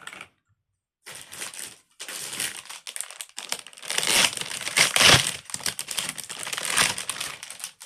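Crinkly plastic packaging being handled and crumpled, a dense irregular crackle that starts about a second in and is loudest around the middle.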